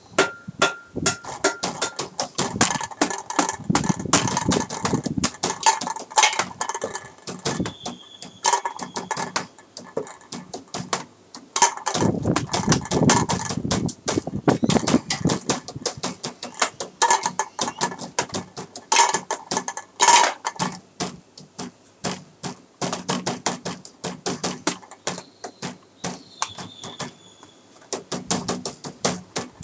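Improvised percussion played by tapping and knocking on everyday objects such as a plastic water bottle, a beer can in a glass, a laptop, a computer mouse and a table, in quick continuous taps with short glassy clinks. Heavier low thumps come in for stretches as a bass part.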